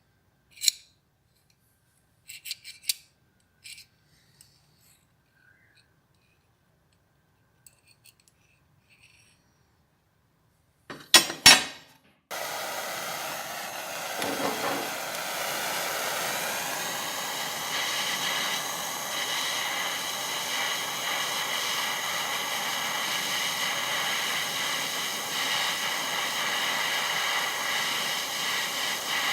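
A few light clicks and knocks of parts being handled, then a louder double knock. About twelve seconds in, a small electric power tool switches on and runs steadily with a faint whine.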